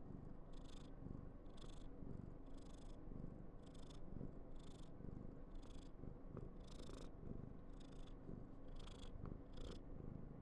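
Somali cat purring steadily close to the microphone, with a breathy hiss about once a second.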